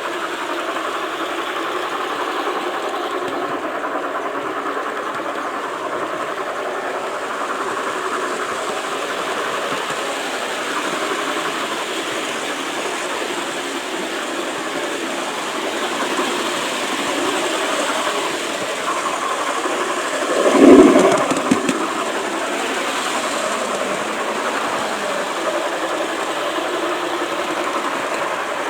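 G-scale model train running on its track, heard up close from a camera riding on the train: a steady rolling rumble of wheels and motor, with a single loud thump about two-thirds of the way through.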